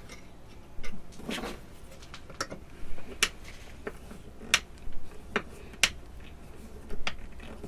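Metal kalimba tines clinking and clicking as they are handled and set down one by one on a work surface: a series of irregular, light clicks.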